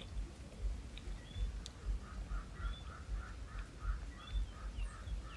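Birds calling outdoors: short chirps scattered through, and from about two seconds in, a rapid run of repeated notes at about four a second. Under it, an uneven low rumbling that comes and goes.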